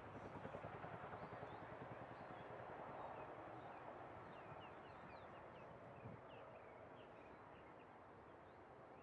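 Faint outdoor background: a steady low noise with scattered faint, short bird chirps.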